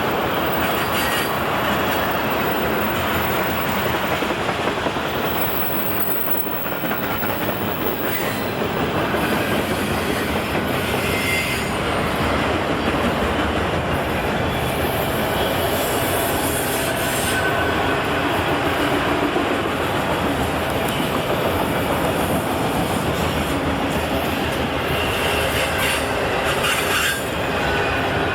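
Freight train cars rolling past close to the rails, a steady rumble of steel wheels on track with clickety-clack over the rail joints and brief wheel squeals.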